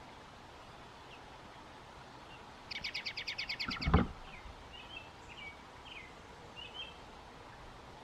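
American robin nestlings begging at the nest: a rapid run of high chirps, about ten a second, starts a little under three seconds in and lasts about a second, ending in a loud low thump. Faint scattered chirps follow.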